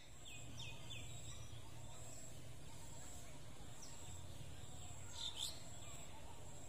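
Faint outdoor ambience: a few short bird chirps, a quick group near the start and a louder one a little after five seconds in, over a steady low hum.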